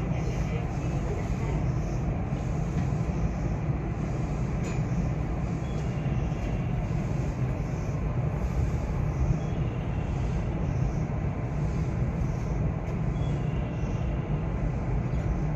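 Steady low rumble and hum inside a JR West 225-series electric train, with no sudden events.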